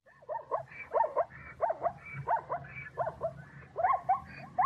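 Plains zebras giving their barking, yelping calls in a quick series, the calls coming in pairs about twice a second.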